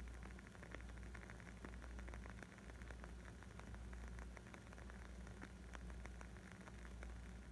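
Wood fire crackling: a dense, irregular scatter of small pops and snaps over a soft steady hiss and low rumble.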